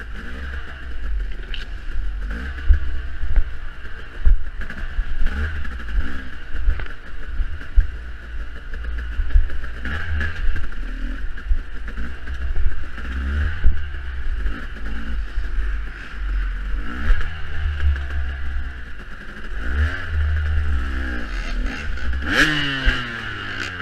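Off-road dirt bike engine running under load, its pitch repeatedly rising and falling as the throttle is worked on the trail. Knocks and clatter come from the bike over rough ground, with a sharper knock near the end.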